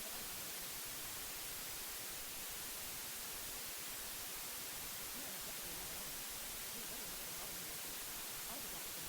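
Steady white noise hiss, even and unchanging, strongest in the highs. A faint voice reading subliminal affirmations is buried beneath it, too quiet to make out.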